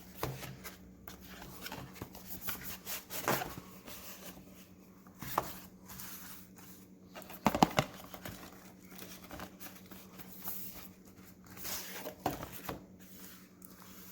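Cardboard box and packaging being handled and opened: scattered rustles, light knocks and clicks, with a sharper cluster of knocks about halfway through.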